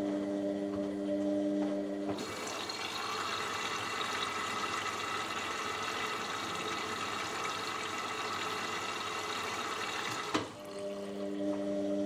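Water rushing through a washing machine. It starts abruptly about two seconds in and cuts off with a click near the end, and a steady low hum sounds before and after it.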